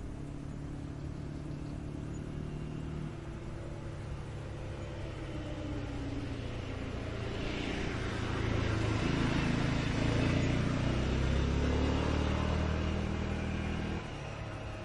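A motor vehicle's engine running, growing louder through the middle as it passes close by, then dropping off suddenly near the end.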